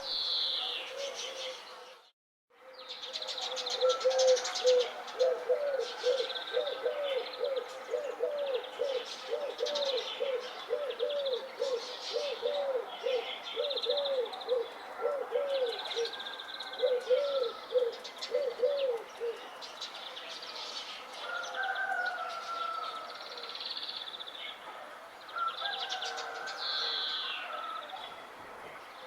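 Several birds chirping and calling, with a low call repeated in quick arching notes, about two a second, from about four seconds in until about nineteen seconds. The sound cuts out briefly just after two seconds.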